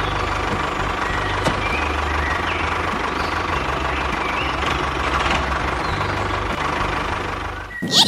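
Engine idling steadily with a low, pulsing knock, like a tractor's diesel.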